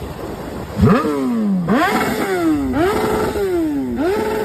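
Motorcycle engine revved four times. Each time the pitch jumps up sharply and then slides slowly back down, and the last two revs are held briefly at the top.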